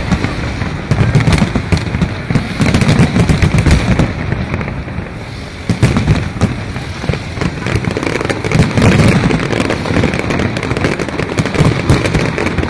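Aerial fireworks shells bursting in quick succession, a continuous run of deep booms and sharp bangs with no pause.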